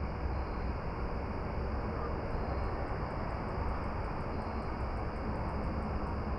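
Steady outdoor ambient noise with a heavy low rumble. From about two seconds in to near the end, a faint, rapid, high-pitched ticking runs over it.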